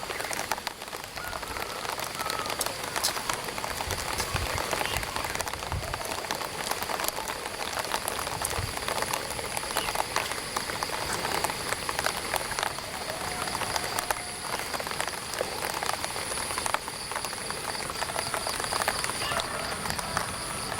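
Light rain pattering on an umbrella overhead: a dense, even stream of small drop taps. A steady high-pitched tone comes in about halfway through and grows stronger toward the end.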